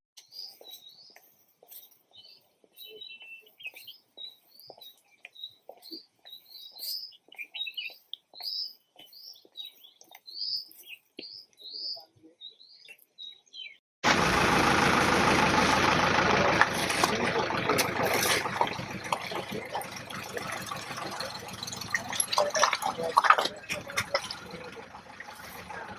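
A bird chirping over and over, a short high call about once or twice a second. About halfway it cuts off abruptly, and loud machinery noise with an engine running takes over.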